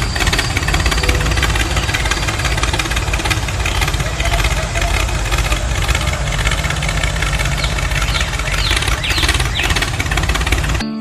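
Tractor engine running steadily with a heavy low rumble, cutting off abruptly just before the end.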